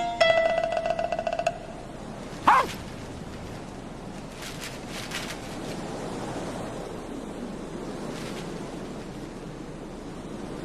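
A few bright musical notes, one held and fluttering, then a quick sliding tone, followed by a steady rush of wind to the end.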